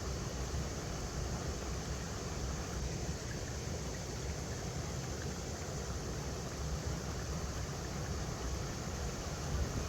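River water flowing over rocks: a steady, even rush with a strong low rumble underneath.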